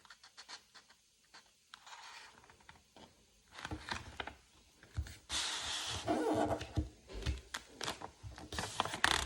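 A sheet of A4 paper being unfolded and folded again by hand: intermittent rustling and crinkling, with a longer rustle about five seconds in and a few soft thumps against the work surface.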